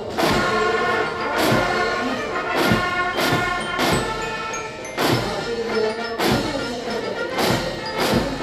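Military band playing a march: brass over a steady bass-drum beat, a little under two beats a second.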